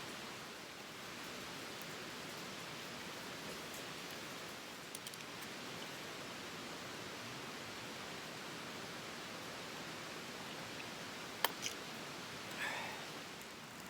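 Steady rushing water noise, like a mountain stream running past the campsite. Near the end there are two sharp clicks close together, then a brief squeak.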